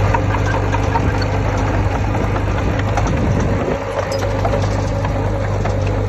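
Heavy diesel earthmoving machine's engine running steadily with a deep hum, with scattered light clicks and clinks over it. The level dips briefly about three and a half seconds in.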